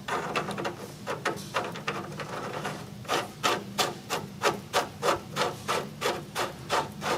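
Flathead screwdriver scraping and clicking in the slot of a steering drag link's threaded end plug as it is turned in to tighten against the ball-seat spring. The strokes come irregularly at first, then settle to about three a second from about three seconds in.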